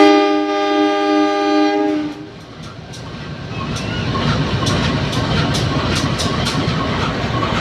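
Train horn sounding one long blast of about two seconds: Semboyan 35, the driver's signal that the train is departing. The rumble of the moving train follows, with wheels clicking over the rail joints.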